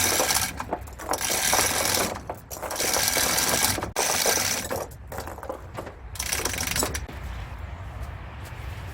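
Four bursts of loud mechanical workshop noise, each up to about a second long, with the last and shortest coming after a pause of a couple of seconds, during work on a truck's hub-reduction gearing.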